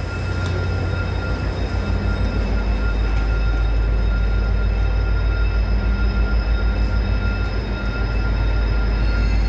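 GO Transit diesel commuter train running: a heavy, steady rumble with a few steady whining tones over it, pulsing a few times a second.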